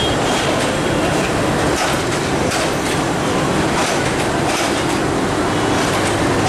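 Diesel-hauled passenger train rolling past, its coach wheels clacking in an uneven run of knocks over rail joints and junction points above a steady rumble.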